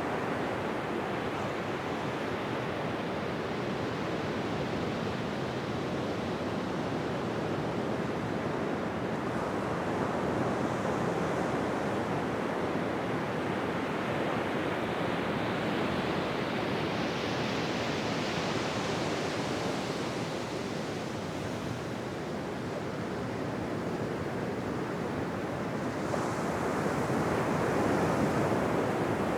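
Ocean surf: waves washing onto a beach in a continuous rush, swelling brighter around the middle and again near the end.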